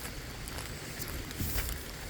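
Steady patter of rain in a forest, with a dull thump of a footstep on wet, muddy ground about one and a half seconds in.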